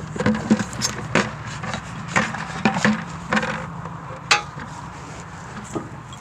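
Irregular knocks and scraping clatter, about a dozen sharp hits over the first four and a half seconds, then fewer.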